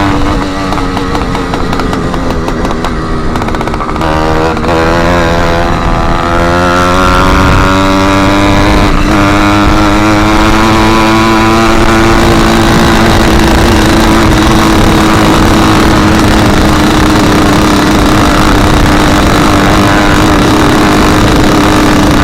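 Small engine of a motorized bicycle running loud through an exhaust with its end tip missing, while riding. It eases off for the first few seconds, then revs up and holds a steady, loud note.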